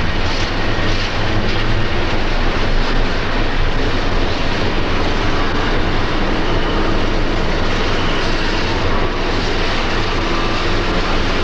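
A South Shore electric interurban train running, a steady, unbroken noise.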